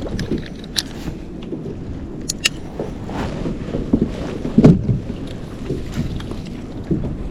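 Water sloshing against a kayak on the sea, with wind on the microphone and a few light knocks and clicks on the hull; one louder splash about halfway through.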